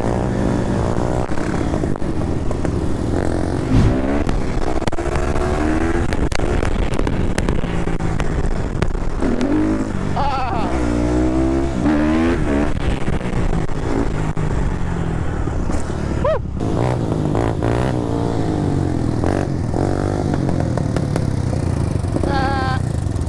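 Dirt bike engine revving up and down through the gears while riding, its pitch rising and falling in repeated sweeps, most sharply about halfway through.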